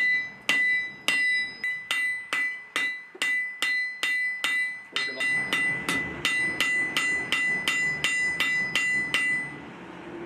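Hand hammer striking hot steel on an anvil, each blow ringing brightly. About two blows a second, quickening to about three a second halfway through, then stopping shortly before the end.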